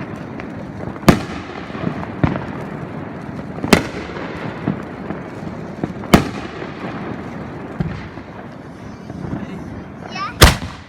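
Fireworks going off: four loud bangs two to four seconds apart, with fainter pops between them over a constant crackle. A brief whistle comes just before the last and loudest bang, near the end.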